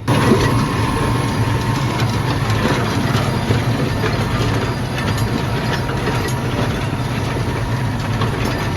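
Tractor engine running steadily while pulling a plough, a loud constant low hum with mechanical noise over it.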